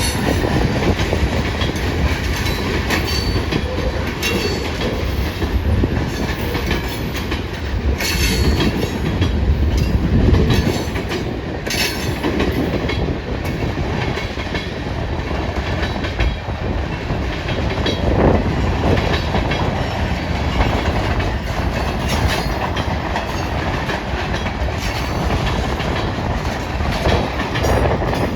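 Freight cars of a long manifest train rolling past, wheels clacking irregularly over rail joints, with strong wind buffeting the microphone.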